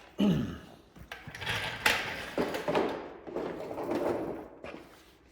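Handling noise: scraping and rubbing with several sharp knocks and clicks as parts are slid and moved about.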